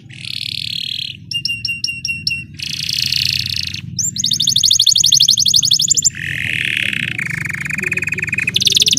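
Canary singing a chain of rapid trills and rolls, switching to a new phrase about every second and moving between high and low pitches, over a steady low hum.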